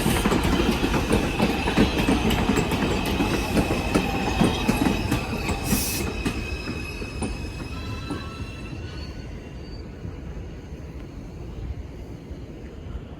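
New York City subway train on the IRT 4 line running with its wheels squealing in a steady high tone over a heavy rumble, then fading away in the second half as it moves off, with a short hiss about six seconds in.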